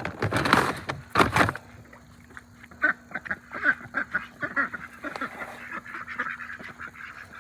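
Ducks quacking in many short, repeated calls. Two loud scraping bursts in the first second and a half come from feed being scooped.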